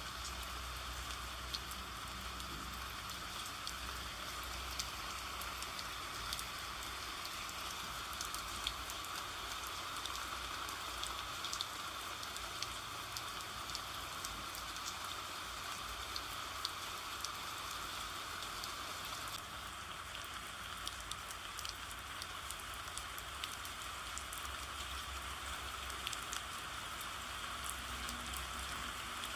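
Steady rain falling, with many scattered drops pattering irregularly over an even hiss.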